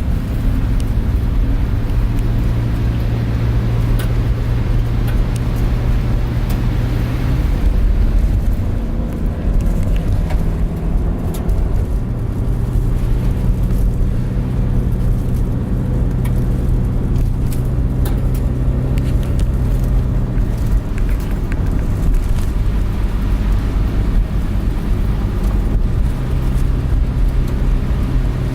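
Van engine and road rumble heard from inside the cabin while driving. The engine's hum changes pitch several times as speed and gears change.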